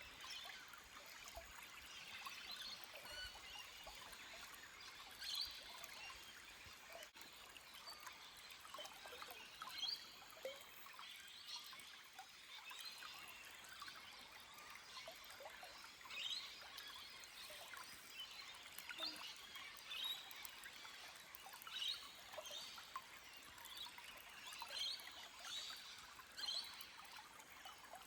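Small forest stream trickling and babbling over rocks, with scattered bird chirps.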